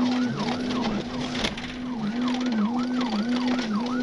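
Police siren in a fast yelp, its pitch sweeping up and down about three times a second, over vehicle road noise during a pursuit.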